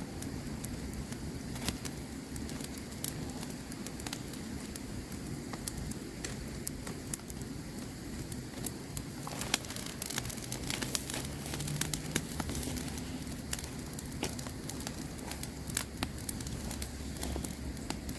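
Wood campfire crackling, with irregular sharp pops and snaps over a steady low rumble of the flames; the loudest pops come about ten and sixteen seconds in.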